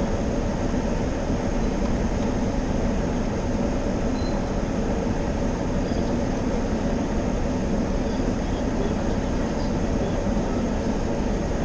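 Steady rumble and hiss heard inside a car's cabin at a car wash, even in level throughout.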